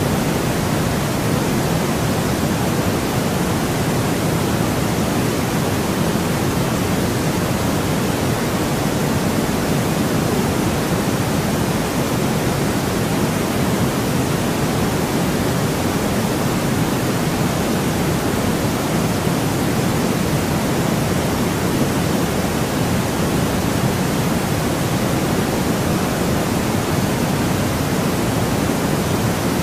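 Steady, unchanging white noise played as a sleep sound: an even rushing hiss, fuller and deeper than a thin bright hiss, with no events or changes.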